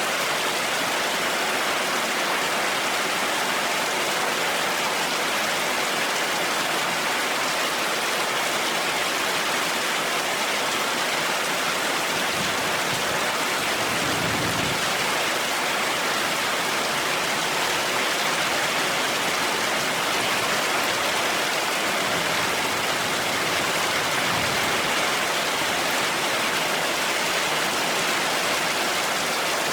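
Heavy rain falling steadily as a dense, even hiss, with two brief low rumbles of thunder, one about halfway through and one near the end.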